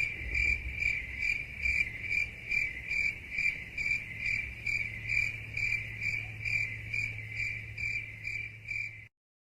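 Crickets chirping in a steady, even rhythm, a little over two chirps a second, over a low hum; it starts and cuts off abruptly.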